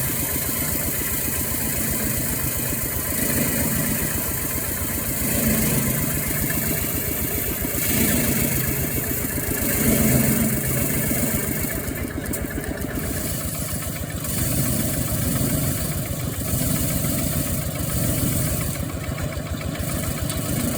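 Small engine running a homemade oil-drum rice thresher and its chaff-blowing fan. It runs steadily, and the sound swells briefly every couple of seconds.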